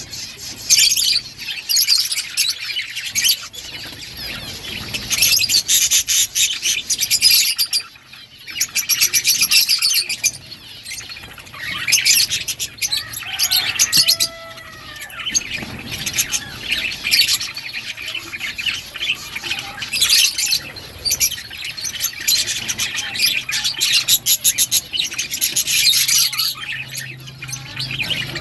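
Several budgerigars chattering and chirping almost nonstop: a dense, high-pitched warble of rapid trills and chirps, with a short lull about a third of the way through.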